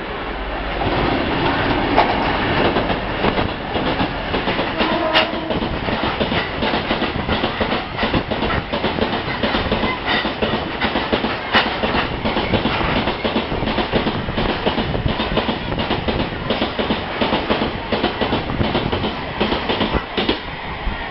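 A train running through the station at speed, its wheels clattering continuously over the rails; loud throughout, building up over the first second.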